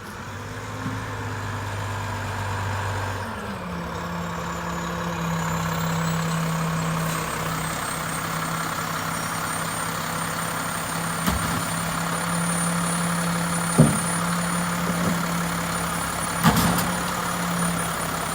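Mack LEU recycling truck's diesel engine running. Its note drops about three seconds in and then holds steady, with a few sharp knocks in the second half.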